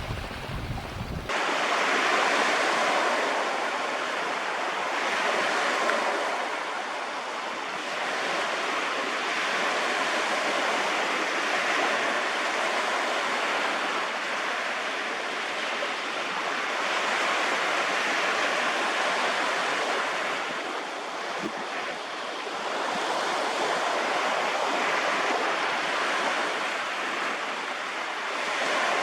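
Rushing, breaking sea water from waves, a steady wash that slowly swells and eases every few seconds. About a second in, a low wind rumble on the microphone cuts off.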